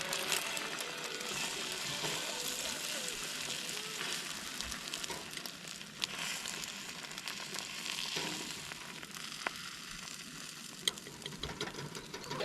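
Food sizzling in a hot pan: a steady hiss with scattered small crackles and pops.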